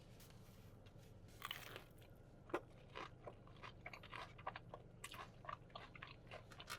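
A person biting into crispy fried chicken with a loud crunch about a second and a half in, then chewing it, with short crisp crunches a few times a second.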